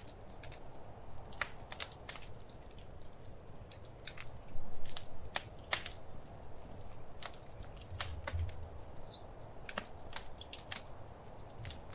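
Wood fire crackling, with irregular sharp pops and snaps over a low rumble of burning logs; a louder flurry of crackles comes about four and a half seconds in.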